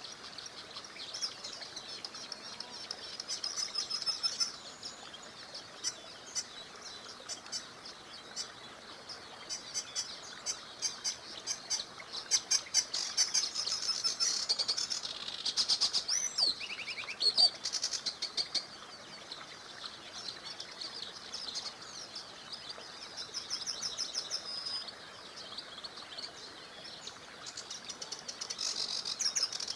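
Several small songbirds chirping and trilling in quick high notes, busiest in the middle and again near the end, over a faint steady hiss of a small river running.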